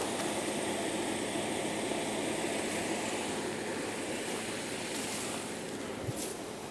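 A steady rushing noise with no clear tone or rhythm, and a brief click about six seconds in.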